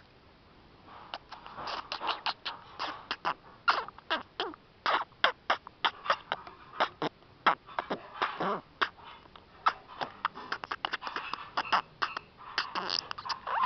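Budgerigar chattering in a rapid string of sharp clicks and short scratchy chirps, the clicky warble of a budgie's song.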